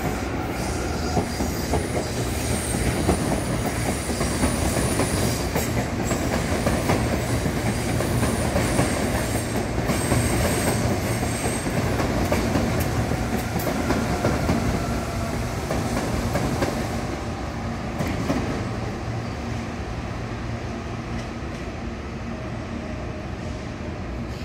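Electric commuter trains running past on the tracks, wheels clicking over rail joints with a faint high squeal in the first half. The running noise eases off about two-thirds of the way through.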